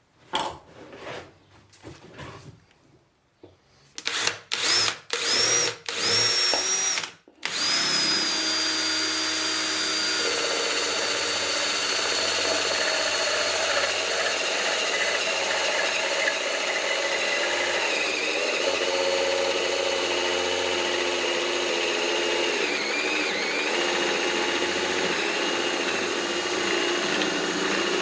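Power drill: a few light knocks, then several short trigger bursts, then the drill runs continuously for about twenty seconds with a high whine, its pitch dipping now and then under load.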